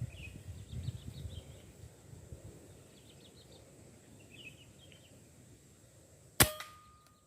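Gusty wind rumbling on the microphone with small birds chirping, then a single sharp air rifle shot about six seconds in, followed by a short ringing tone.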